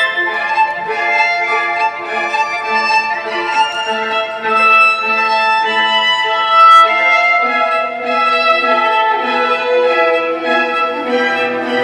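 Music for the dance: bowed string music led by a violin, moving through a series of held notes, with one sharp knock a little past the middle.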